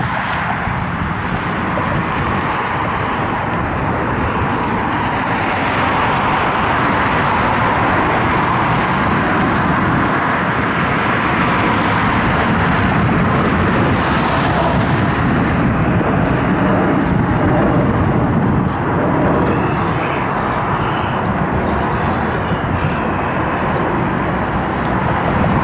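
Jet airliner engine noise, a steady rushing sound that slowly grows louder over the first two-thirds.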